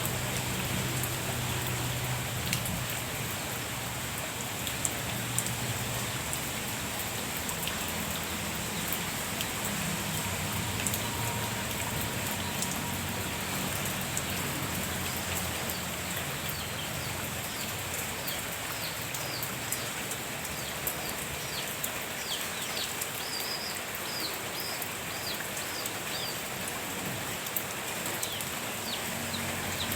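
Steady rain falling, with scattered louder drops ticking close by. From about halfway in, a bird repeats short falling chirps over the rain.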